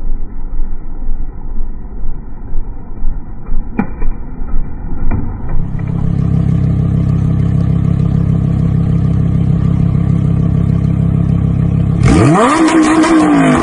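Vehicle engines heard in three abrupt cuts: a rough-running engine with two sharp knocks, then an engine running steadily, then near the end an engine revving up sharply and falling back.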